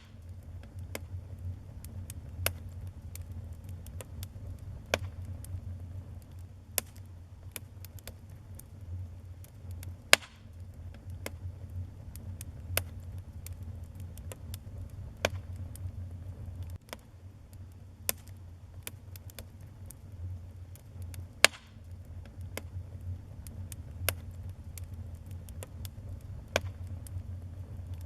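Fire burning in a fireplace, crackling: irregular sharp pops and snaps over a steady low rumble of the flames, with two much louder pops, one about a third of the way through and one about three quarters of the way through.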